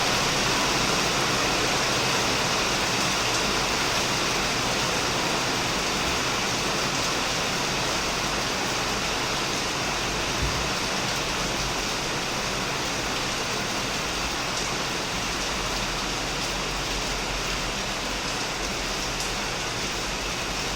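Heavy rain falling steadily on a shed roof and plants, a dense, even hiss.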